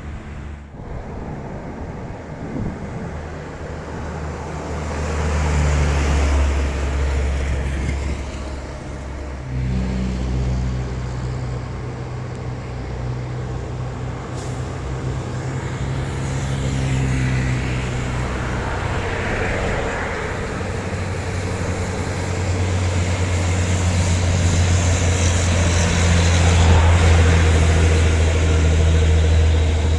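Heavy diesel truck engine pulling uphill under load. Its low engine note changes abruptly about ten seconds in and grows louder towards the end.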